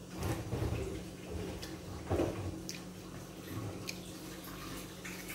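Faint eating sounds, soft chewing and a few small clicks, over a steady low hum.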